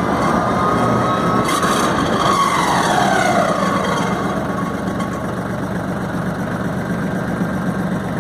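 Branson 3510H hydrostatic tractor coasting in neutral: the diesel engine runs steadily under a high-pitched, tinny whine from the drivetrain, really loud, that falls in pitch about two to three seconds in and then fades. The owner likens the tinny noise to an impeller hitting, heard over the normal gear whine.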